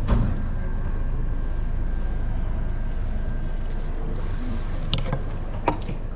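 A steady low rumble of wind on the microphone from an open boat, with a sharp knock at the start and two more short knocks about five seconds in.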